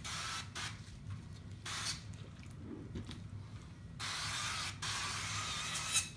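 Aerosol can of canola non-stick cooking spray hissing in several bursts as it coats raw whole chickens: short squirts near the start, then a longer spray of about two seconds near the end, closing with a sharp click.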